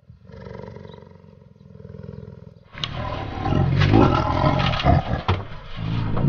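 An animal roaring: a quieter low rumbling call, then from about three seconds in a much louder, rough roar.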